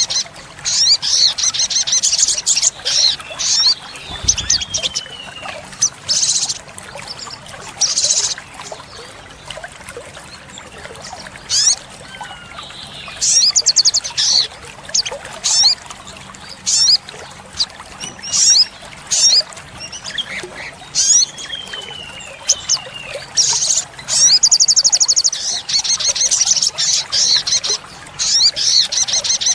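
Olive-backed sunbird singing: a busy string of sharp, high-pitched chirps and short trills, with a few thin descending notes and two longer, very fast trills, one midway through and one near the end.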